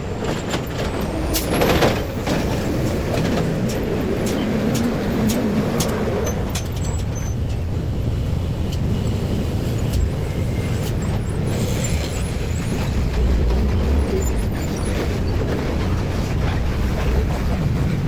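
Heavy road vehicles, trucks or buses, rumbling past steadily, with a short hiss and squeal about two seconds in.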